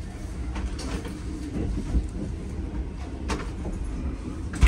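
Sunrise Express sleeper train rolling slowly into the station, heard from inside the compartment: a steady low rumble of wheels on rail with a few faint clacks, and one sharp clack just before the end.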